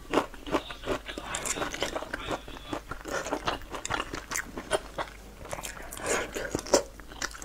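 Close-miked chewing and biting while eating boiled dumplings with chopsticks, with irregular sharp clicks throughout.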